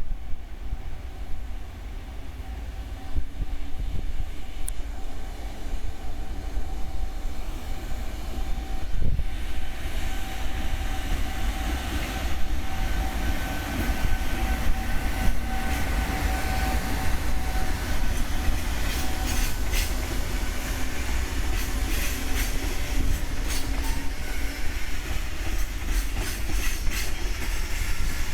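Freight train pulling out of the yard: a steady rumble, with a held tone through the middle. Then a growing run of clicks as the wheels pass over the rail joints.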